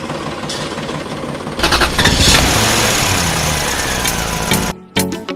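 A small engine starts up loudly and runs, its pitch slowly falling, before music cuts in near the end.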